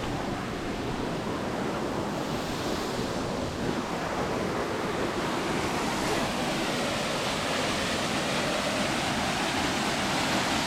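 Steady rush of a waterfall and river rapids, an even roar of water with no breaks.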